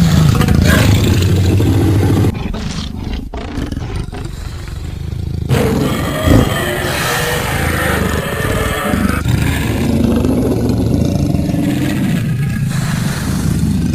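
Cartoon lion roaring, loud and drawn out, easing off for a few seconds about two seconds in before building back up.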